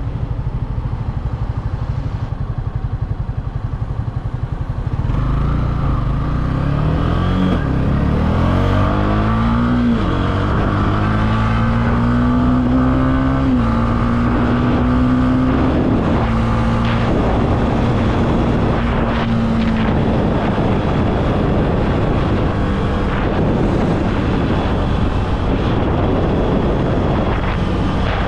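Honda CB300F single-cylinder engine pulling through the gears. Its pitch rises, drops back at two gear changes about a third and half of the way in, then holds steady at cruise. A rushing wind noise takes over toward the end.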